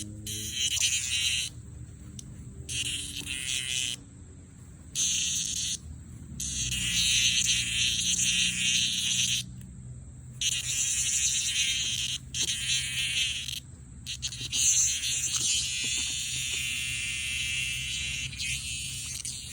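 Cicadas buzzing, loud and high-pitched, in stretches that start and stop every few seconds and run almost without a break in the second half, over a low rumble.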